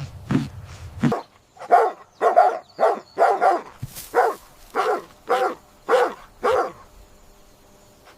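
A dog barking: a run of about a dozen short barks, roughly two a second, that stops about two-thirds of the way in.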